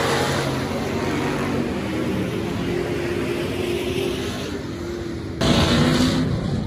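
Super stock dirt-track race car engines running, steady engine tones under track noise. About five seconds in, the sound jumps suddenly to a louder rumble with wind buffeting the microphone.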